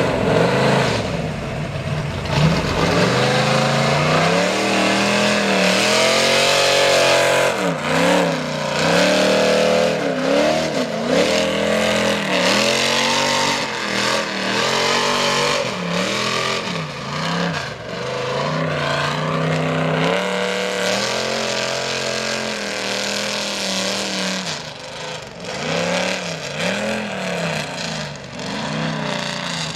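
Mega truck engine revving hard in a mud bog, its pitch climbing and dropping again and again as the throttle is worked.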